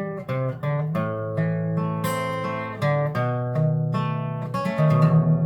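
Acoustic guitar being played without singing: a run of picked single notes mixed with a few strummed chords, each note ringing on.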